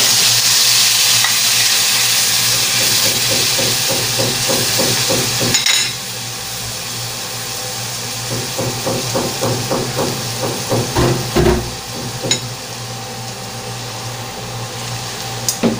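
Soy sauce and calamansi marinade sizzling loudly in hot oil in a wok as fried chicken wings are tipped in; about six seconds in the sizzle drops to a quieter, steady frying hiss with a quick run of small ticks. Metal tongs click against the wok a few times near the end.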